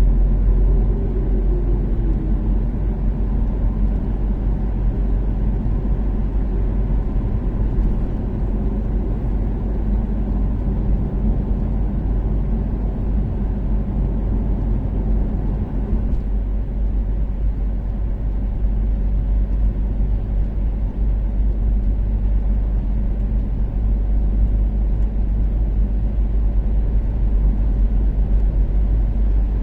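Toyota Caldina ST246W's turbocharged 3S-GTE four-cylinder running steadily at expressway cruising speed, with a heavy low road rumble. The engine tone dips slightly in pitch about a second in.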